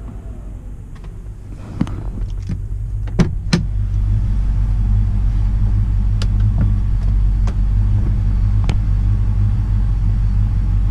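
Car engines idling with a steady low rumble that grows louder about two to four seconds in. A few sharp clicks and knocks land in that stretch, and lighter ticks follow.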